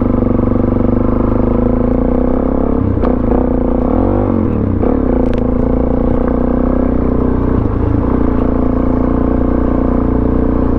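Suzuki DR-Z400SM single-cylinder four-stroke engine with a Yoshimura exhaust, running at a steady throttle while the bike is ridden. The pitch dips and recovers briefly about four seconds in, and there are a few sharp clicks of clatter.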